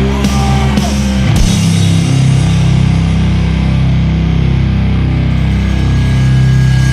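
Sludge metal: heavily distorted, low-tuned guitar and bass with drum hits in the first second or so, then a long held, droning chord. A thin high tone, like guitar feedback, comes in near the end.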